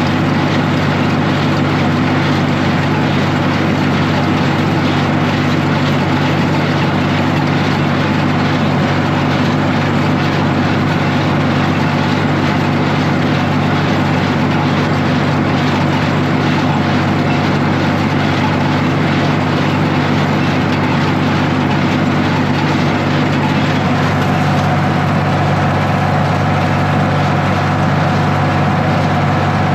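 Tractor engine running steadily, its note shifting slightly about 24 seconds in.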